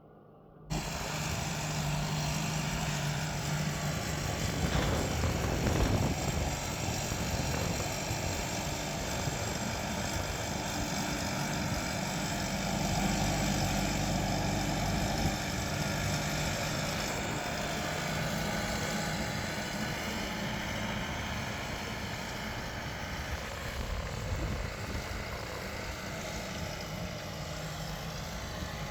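Deutz-Fahr 5125G tractor's diesel engine running steadily under load as the tractor works on a slope. It starts abruptly about a second in.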